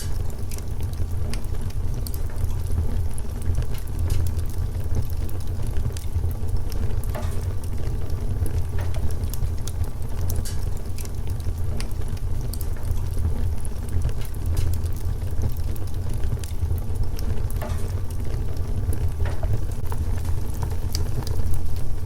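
Wood fire crackling, with irregular sharp pops scattered over a steady low rumble.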